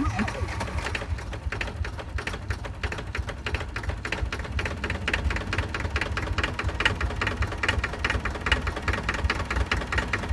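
Rapid, even mechanical clatter over a steady low rumble, like a small engine running.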